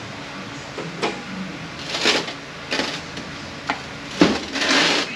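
Metal parts of a Mercedes 722.118 automatic transmission clinking and scraping as they are handled during teardown. It is a string of separate clinks and rattles, with a sharp clack about four seconds in and a longer scrape just after it.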